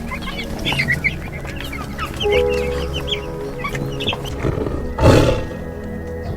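Many short, overlapping bird calls from a flock, over background music with steady held notes; a single louder, harsher call stands out about five seconds in.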